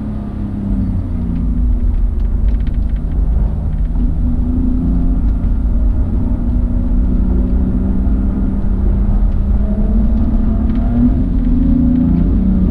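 Car engine heard from on board, its note rising and falling as the car accelerates and lifts off, over a heavy low rumble.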